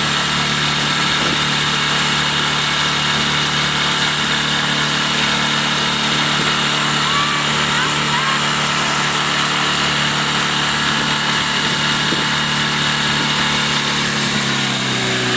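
Small boat's engine running steadily over wind and water noise, its pitch dropping about a second before the end.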